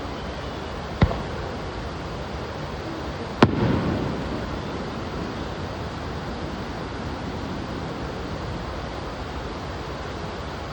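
Two aerial fireworks shells bursting: a sharp bang about a second in, then a louder bang a couple of seconds later with a rumbling tail that dies away over about a second. A steady rushing noise lies under both.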